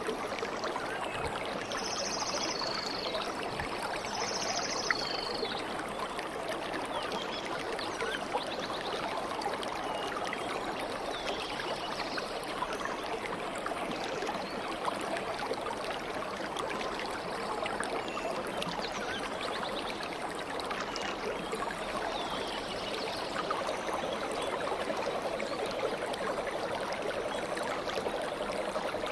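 Stream water flowing and trickling steadily. A bird gives two short high calls a few seconds in.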